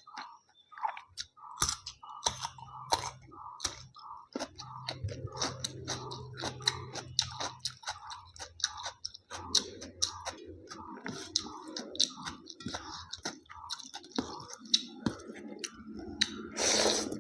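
Close-up chewing and biting of a mouthful of rice, chicken and salad, with wet mouth clicks and crunches in a steady rhythm of two or three chews a second. A louder, noisier sound lasting under a second comes near the end.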